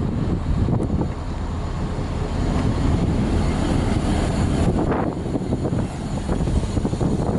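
Diesel train running close by: a steady low engine rumble, with a few brief higher clanks or squeals.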